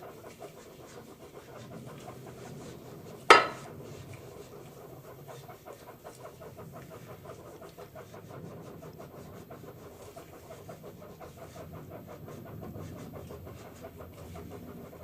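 A rag on a coat-hanger wire rubbing and scraping as it is worked up and down inside the bore of an HEI distributor housing. A single sharp knock comes about three seconds in.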